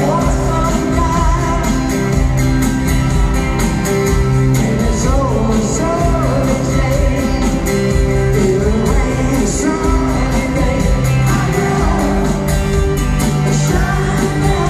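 Live rock band playing with a lead vocal: guitars, bass and drums with a sung melody over them.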